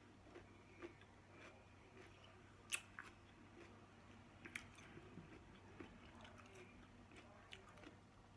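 Close-miked chewing and biting: faint, irregular mouth clicks and crunches, with a sharper bite a little under three seconds in and another about four and a half seconds in.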